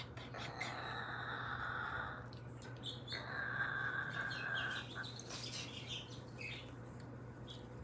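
A pet bird calling: two drawn-out calls of nearly two seconds each, then a quick run of short chirps, over a steady low hum.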